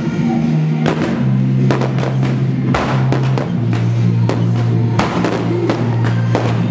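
Aerial fireworks going off in a string of sharp bangs and crackles over loud music with held bass notes and drums.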